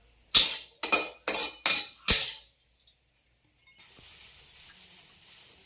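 Metal spatula striking and scraping a wok five times in quick succession while stir-frying salted greens, each stroke ringing briefly. A faint steady hiss follows from about four seconds in.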